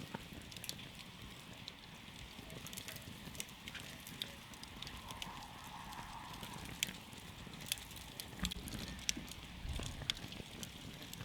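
Campfire crackling, with irregular sharp pops and snaps over a low, steady rumble of burning.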